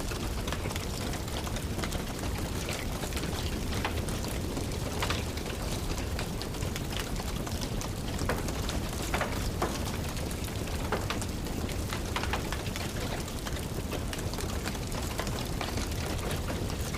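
Steady rain falling, with scattered sharp pops and crackles from a wood fire burning in a fireplace.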